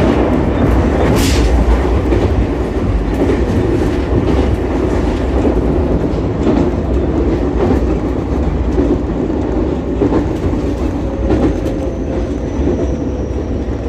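Ichibata Electric Railway 7000-series electric railcar running, heard from on board: a steady rumble of wheels on rail with scattered clicks over rail joints. A faint falling whine comes in over the last few seconds.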